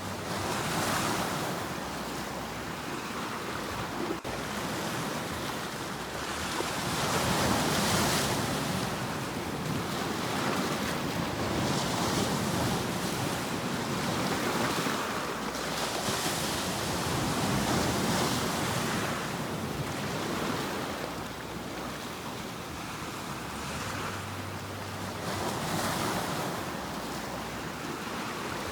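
Sea waves breaking and washing in, the surf swelling and easing every few seconds, loudest about a quarter of the way through.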